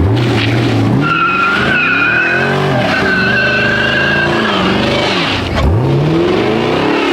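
Squatted pickup truck engine revving hard, its pitch swooping up and down several times, with tires squealing steadily for a few seconds in the first half.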